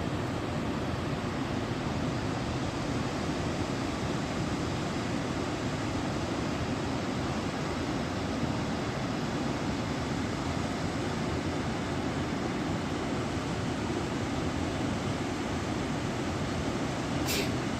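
Floodwater of a river in flash flood rushing, a steady dense noise without let-up; a brief sharp high hiss near the end.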